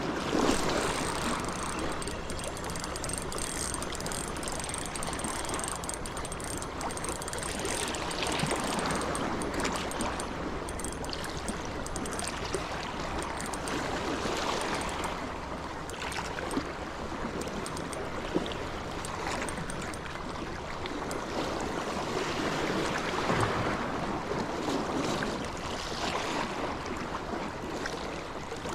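Steady washing of small waves and water at the shoreline.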